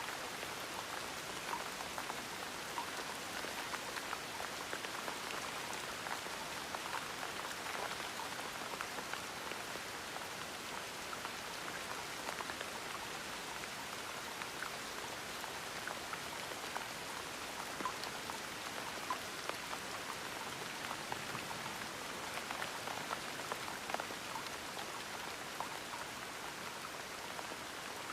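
Gentle rain falling steadily, with scattered individual drops ticking on a surface.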